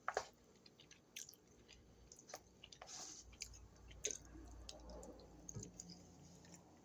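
Faint mouth sounds of a person chewing: scattered small clicks and crunches.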